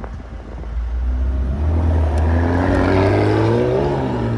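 McLaren sports car's twin-turbo V8 pulling away, its revs climbing steadily, then dipping briefly and rising again near the end.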